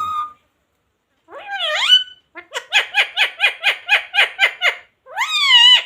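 Pet green parrot calling: a short rising call, then a quick run of repeated chattering notes, about five a second, and a long rising-then-falling call near the end.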